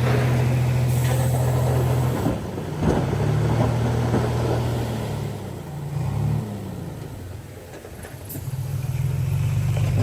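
Diesel engine of heavy earthmoving equipment working under load. It runs steadily, changes about two seconds in with a few knocks, rises and falls in pitch around the middle, eases off briefly, then runs hard again near the end.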